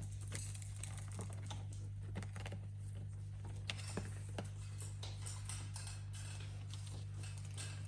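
Parrots at play making scattered light clicks and taps, over a steady low hum.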